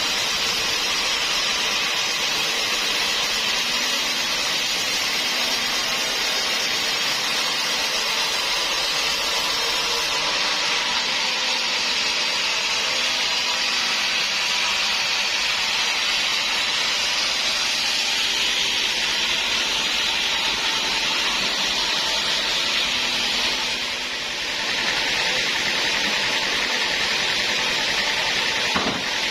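Band sawmill running and cutting through hard acacia wood: a steady, hissing saw noise that dips briefly near the end and then carries on in a higher pitch.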